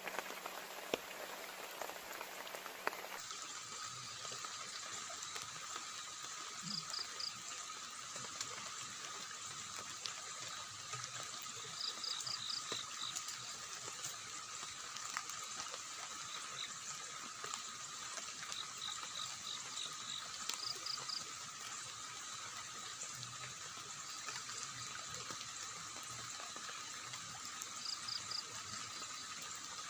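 Steady wash of rain and running water. Now and then there are runs of three to five short high chirps.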